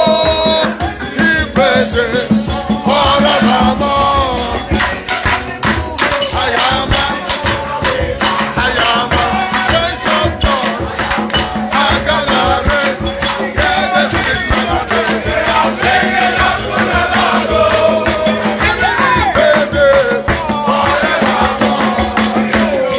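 Worship music: voices chanting and singing over steady, dense percussion and a held low tone.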